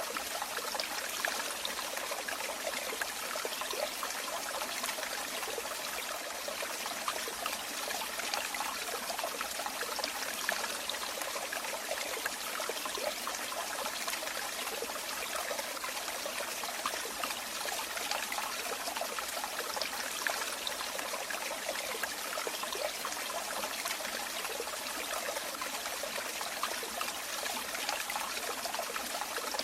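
Running water trickling and splashing steadily, an even stream sound with fine bubbling flicker and no pauses.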